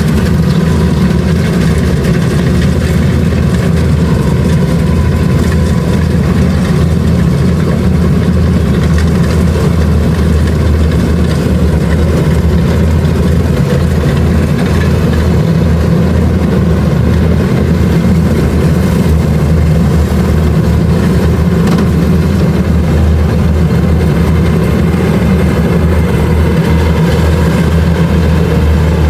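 Kubota DC-70 Plus rice combine harvester running steadily, its diesel engine holding an even, loud note throughout.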